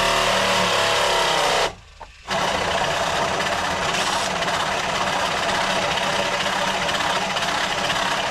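Battery-powered saw cutting during deck demolition: a steady, loud run that stops for about half a second near the two-second mark, then carries on. The blade is worn and cuts poorly, by the user's own account.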